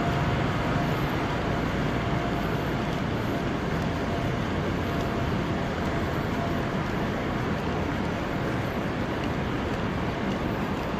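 Steady, even background roar of city traffic, with no single event standing out.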